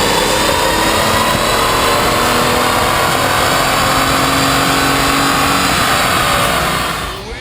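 2013 Ford F-150's 3.5-litre EcoBoost V6, fitted with a single-turbo kit and 3-inch cat-back exhaust, accelerating under load, its engine note rising slowly through one long pull. It drops away near the end.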